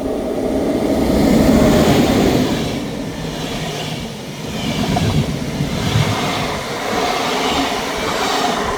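ÖBB class 1144 electric locomotive rolling past with an ICE train: a loud rush of running gear and blower noise that peaks about two seconds in. Wheels rumble and clatter on the rails after that, swelling and easing every second or two as the cars go by.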